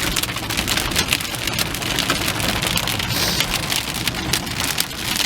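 Rain beating on a car's roof and windshield as dense, rapid drops, with a steady low rumble underneath.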